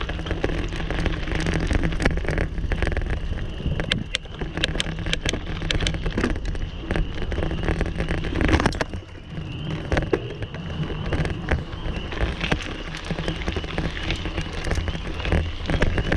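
Bicycle ride heard from the bike: wind buffeting the microphone, with steady rattling and clicking from the bike as it rolls.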